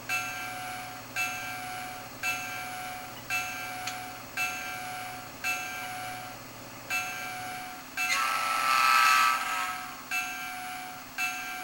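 Model diesel locomotive's sound-decoder bell ringing about once a second from a small onboard speaker, over the low hum of the idling prime mover. About eight seconds in, a louder hissing surge lasts a couple of seconds.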